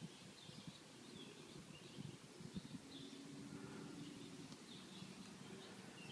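Faint outdoor ambience: small birds chirping over and over, over a low background rumble.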